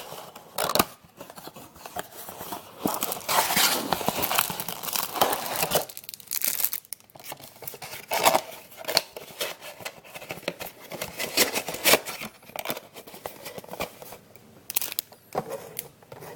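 Trading card box packaging being torn open and crinkled by hand: irregular tearing, rustling and crackling in bursts, with scattered sharp clicks.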